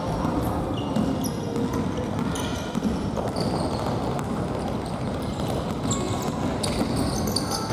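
Futsal being played on a gymnasium court: the ball being kicked and bouncing amid players' footwork, with many short, high shoe squeaks on the floor.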